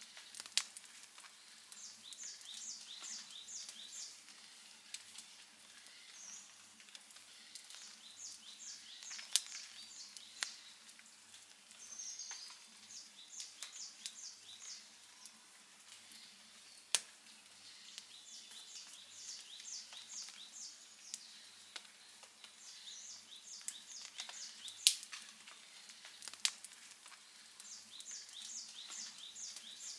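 Wood campfire crackling, with a few sharp pops standing out. Behind it, high chirps in quick runs of about five repeat every few seconds.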